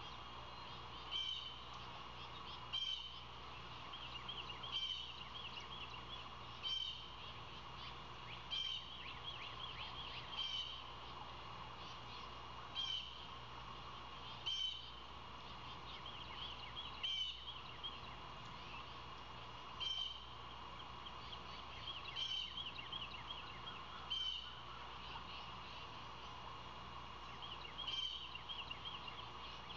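A bird calling over and over in short, high, trilled phrases, about one every two seconds with a brief pause near the end, over a steady background hiss.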